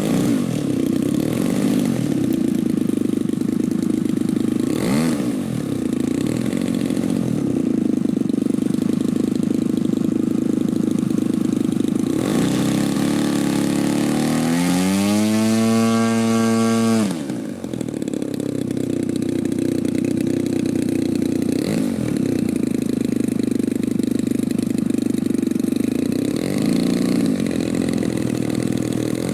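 Single-cylinder gasoline two-stroke engine (DLE-55) of a giant-scale radio-control P-40 in flight, a steady drone that swells and fades as the plane passes. About halfway through, a loud close pass rises in pitch, holds, then drops away suddenly as it goes by.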